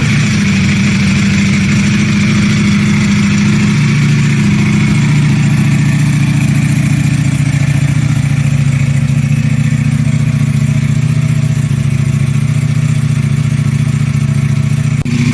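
Ducati superbike engine idling steadily just after being started; the idle settles slightly lower about four seconds in.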